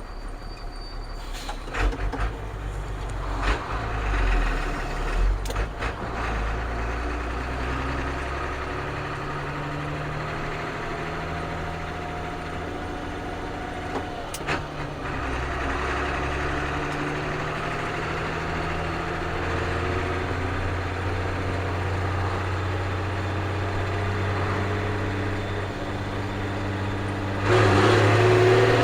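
Ford CF7000 truck's 6.6-litre Brazil diesel engine running under way, its note stepping up and down in pitch several times, with a few sharp clicks along the way. It gets louder for a moment near the end.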